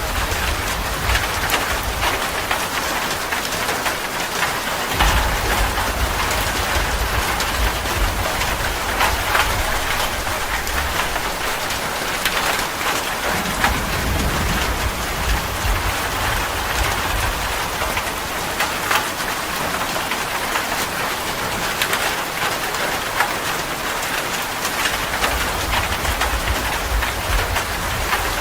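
Steady rain falling on hard surfaces, with single drops and splashes standing out now and then over the hiss, and a low rumble underneath that fades out and back in several times.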